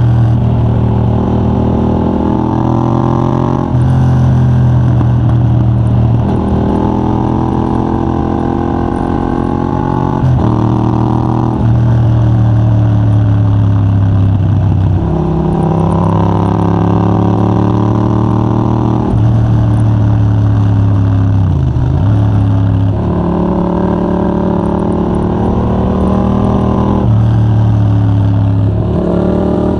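Yamaha MT-07's 689 cc parallel-twin engine through a de-catted Mivv GP Pro titanium exhaust, accelerating hard and shifting through the gears. The revs climb repeatedly and drop sharply at each shift, with one deeper drop and climb again a little past the middle.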